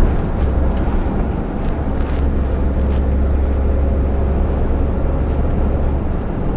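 Truck driving at road speed: a steady, deep engine drone with tyre and road noise.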